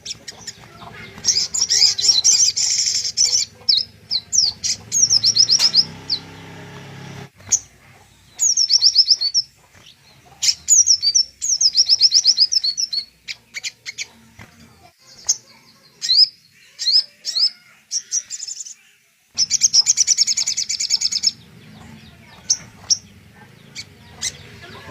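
A songbird singing a tutor song in separate phrases. Two dense, very fast high trills of about two seconds each, one near the start and one about twenty seconds in, frame quick runs of repeated high chirps and sweeping notes, with short pauses between phrases.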